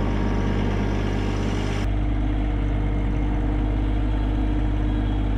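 Small John Deere subcompact tractor's engine running steadily. There is an abrupt change in its tone about two seconds in, where two clips are joined.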